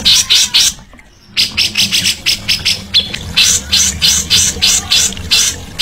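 A songbird giving a fast chatter of harsh, rasping notes, about five a second, with a short pause about a second in before the run carries on.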